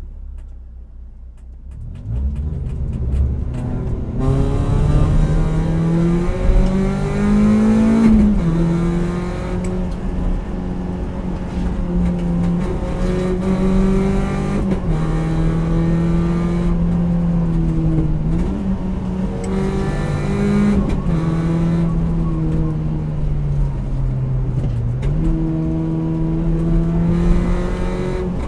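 Car engine under way on a winding road, heard from inside the car. It is quieter at first and grows louder about two seconds in. The revs hold steady for stretches, then drop and jump several times with gear changes.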